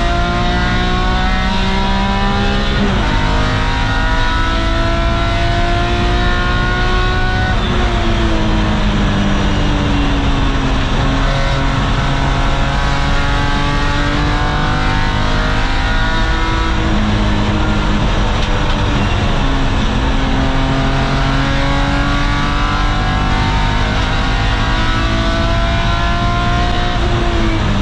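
BMW E46 M3's S54 straight-six engine at high revs, heard from inside the cabin on a hot lap, climbing between about 6,000 and 7,000 rpm. Its pitch rises under acceleration, changes abruptly at a gear change about 3 seconds in, falls as the car slows for a corner around 8 seconds, then climbs again, dropping once more near the end.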